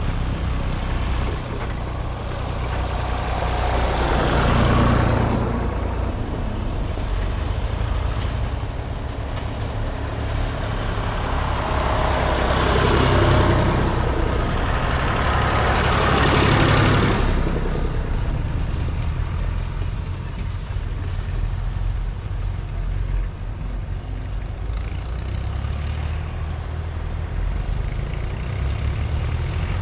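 Vintage tractors driving past one after another over a steady low engine rumble. Three pass close, swelling loud and fading, about 5, 13 and 17 seconds in.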